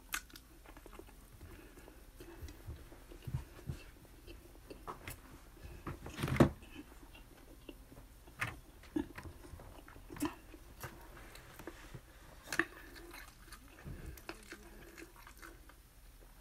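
Close-up eating sounds of someone eating a rice meal by hand: chewing and biting with scattered small clicks, and a louder thump about six seconds in.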